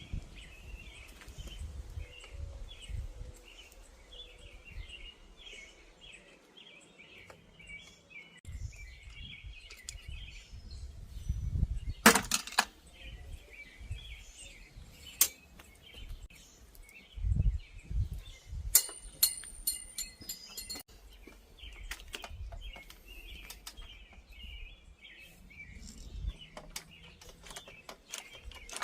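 Hand tools clicking and clinking on a bicycle's metal parts during a teardown, with sharp clicks about twelve and fifteen seconds in and a quick run of clicks with a high ringing about two-thirds through. Birds chirp faintly throughout.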